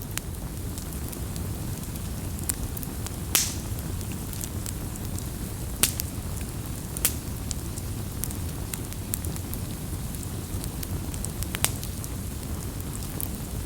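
Wood campfire burning with a steady low rumble and scattered sharp crackles and pops, the strongest about a third of the way in, near the middle and near the end.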